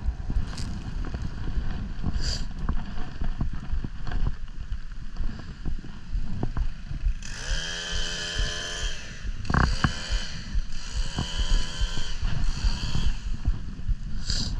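Wind rumbling on the microphone, with a chainsaw revved twice in short bursts about halfway through and again a little later, its pitch dropping and then holding steady. The saw is in trouble, with a chain that may be binding on a sprocket run with the chain brake on.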